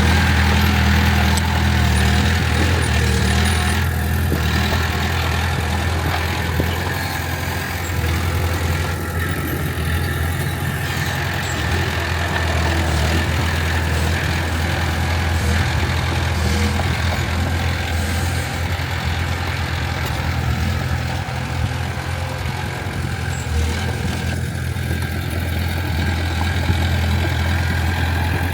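Heavy diesel engine of earthmoving equipment running steadily with a low, even drone that barely changes in level.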